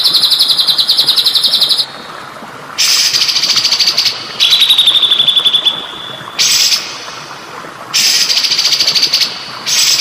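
Recorded songbird song: rapid buzzy trills, each phrase about a second long and gently falling in pitch, repeated about five times with short pauses between. Underneath runs a steady trickle of water.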